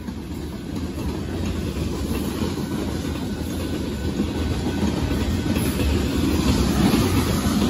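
Covered hopper cars of a freight train rolling past at close range: a steady rumble of steel wheels on the rails, growing louder toward the end.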